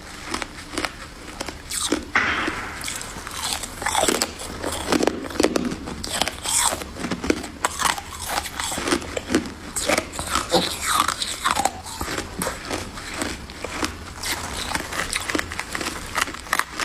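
A person biting and chewing crunchy freezer frost ice: a dense, irregular run of crunches and crackles.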